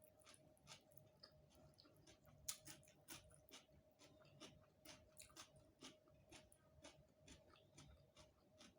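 Close-miked eating sounds: chewing with irregular wet mouth clicks, a few a second, with a louder one about two and a half seconds in. A faint steady hum runs underneath.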